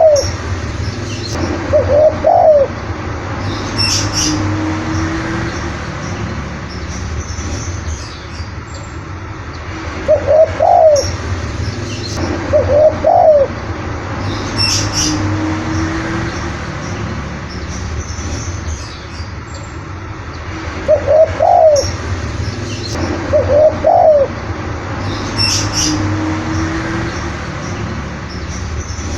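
Spotted dove (tekukur) cooing in pairs of short coos. The same sequence repeats about every eleven seconds, each time followed by a brief high chirp from another bird, over a steady background hiss.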